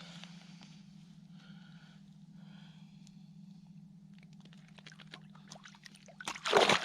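Water splashing and sloshing, sudden and loud near the end, as a large walleye is hauled up through a hole in the ice, after a run of small clicks and scrapes. A steady low hum runs underneath.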